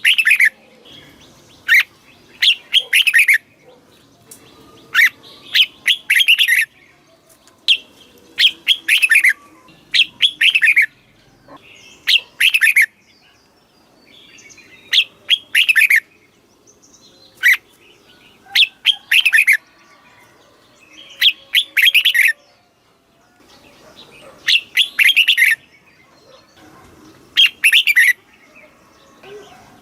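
Red-whiskered bulbul singing: short, bright phrases of quick downward-slurred notes, repeated every one to three seconds with brief pauses between them.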